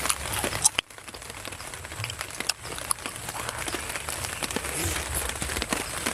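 Steady rain with scattered drop taps and clicks; the sound briefly drops out just under a second in.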